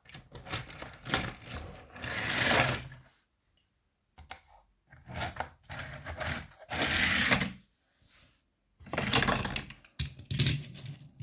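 Small push-along toy train engines being rolled by hand along toy train track, their wheels clattering and rattling in bursts of about a second, with short quiet pauses between pushes.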